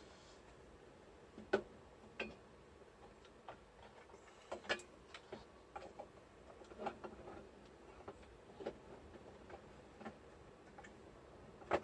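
Light, irregular clicks and knocks, roughly one a second, from engine parts and tools being handled while a 50cc mini moto engine is fitted. The sharpest knocks come about a second and a half in and right at the end.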